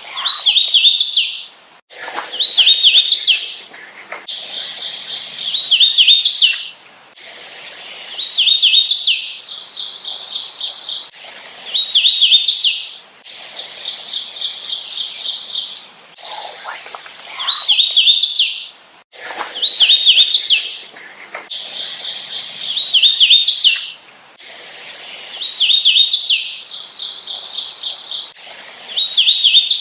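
Hooded warbler singing its song over and over, about every three seconds. Each song is a quick series of slurred whistled notes that ends on a higher note.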